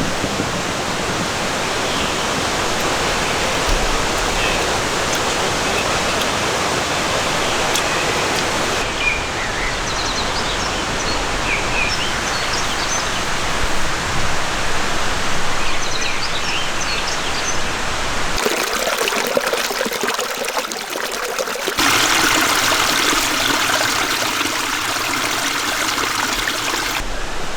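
Steady rain falling, a dense hiss of water that changes character abruptly a few times. A few faint high chirps come through in the middle.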